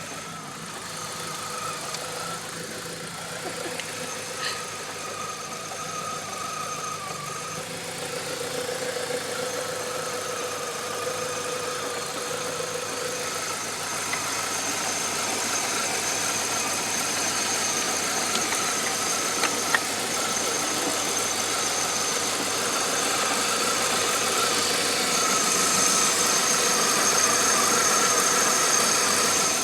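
Car engine running steadily with a high whine over it, growing slowly louder. The fault is put down to an alternator that is not charging at all.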